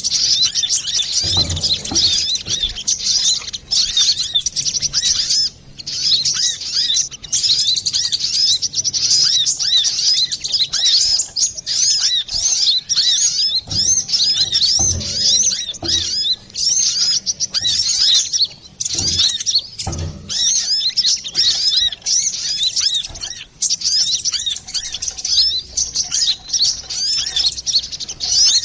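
Brown-throated sunbird (kolibri kelapa) singing non-stop, a busy stream of rapid high chirps and twitters, with a few brief low thumps scattered through.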